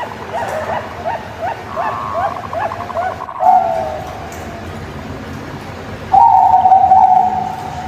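Zebra dove (perkutut) cooing: a run of short rising notes, about three a second, with a quick trill in the middle, then a falling note, a pause, and one long steady note about six seconds in.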